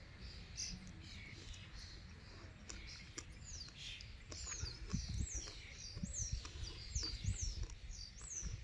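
Small bird chirping repeatedly: short high notes that slide downward, about two a second, starting about three seconds in. Faint low thuds and rumble underneath.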